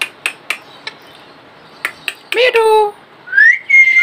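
Talking parakeet: a few sharp clicks, then the short call "mithu" about two and a half seconds in, and near the end a rising whistle that levels off and holds steady.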